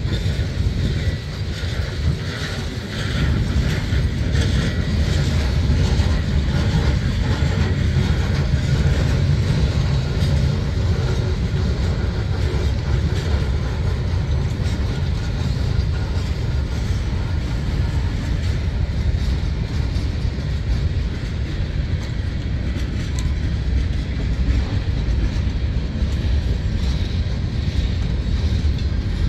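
Norfolk Southern freight train's boxcars and tank cars rolling past close by: a steady, loud low rumble of steel wheels on the rails, with some wheel clatter over the track.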